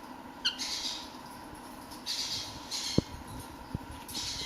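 A young Meyer's parrot gives one short, falling chirp about half a second in. Soft rustling and two light clicks follow later.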